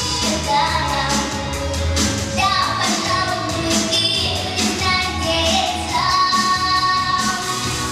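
A song with a sung melody of held notes over a steady beat, with a child's or high voice singing.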